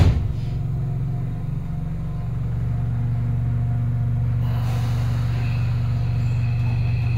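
Inside a Keio Line electric commuter train car: a sharp thud at the start, like the car's door shutting, then a steady low rumble and hum of the train, with a thin electric whine coming in about four seconds in.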